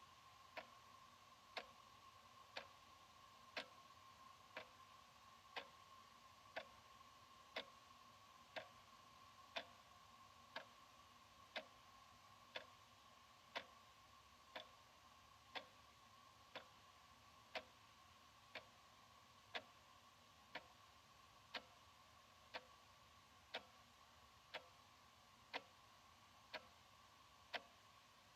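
Analog wall clock ticking steadily, one sharp tick about every second, with a faint steady hum underneath.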